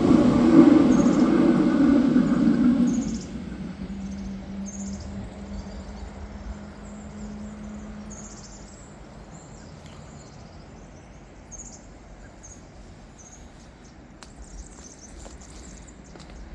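Small songbirds chirping over and over in short high notes. For the first three seconds a loud rushing noise covers them, then cuts off suddenly, leaving a faint hum that fades away.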